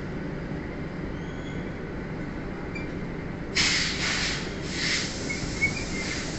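Freight train of empty flat wagons rolling slowly past, with a steady low rumble of wheels on rail. A little over halfway through come a few short bursts of high hissing screech.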